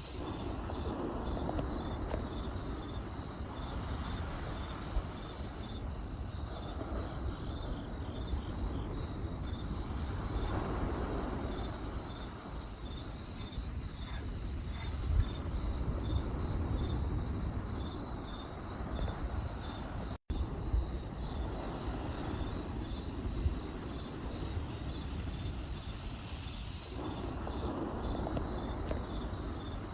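Crickets chirping in a steady, rapid pulsing trill over the low, swelling rumble and occasional sharp crackle pops of a campfire. The sound cuts out for a split second about two-thirds of the way through.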